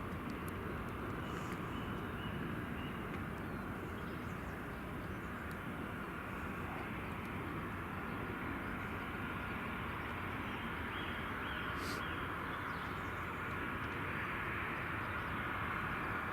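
Jet airliner engines running with a steady rumble and hiss that grows a little louder near the end.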